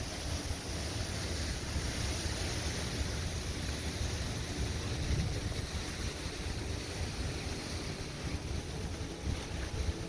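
Hurricane-force wind blowing hard and steadily, buffeting the microphone with a fluttering low rumble under a constant rushing hiss.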